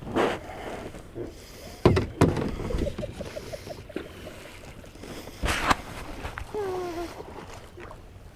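A small boat's hull knocking and splashing as it runs up onto a beach, with loud knocks about two seconds in and again past halfway. A short gliding tone is heard near the end.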